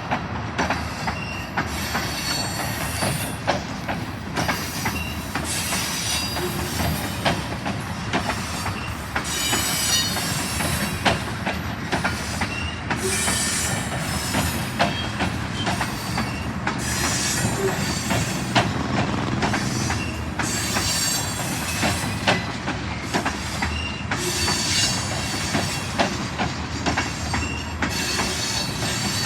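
Train cars rolling past, wheels clicking and knocking irregularly over rail joints, with short high squeals from the wheels against the rails.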